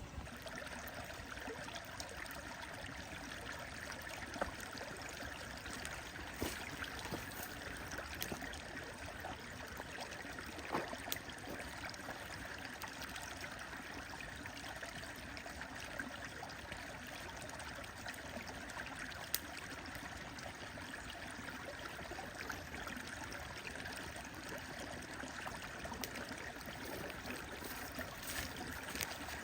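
Stream water running steadily, with a few sharp pops scattered irregularly through it from a crackling wood fire.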